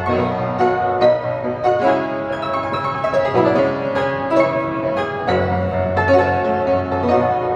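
Self-playing piano playing a continuous tune, with many notes struck in quick succession.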